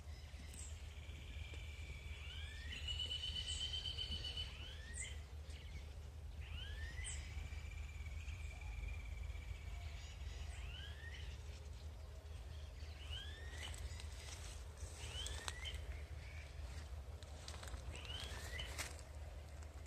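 Birds calling: a short arching call repeated every second or two, with a brief rapid trill about three seconds in, over a steady low rumble.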